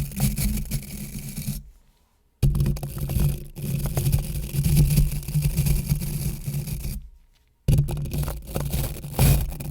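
Close-miked scratching and scraping in three stretches, each cut off abruptly into silence, about two seconds in and again about seven seconds in.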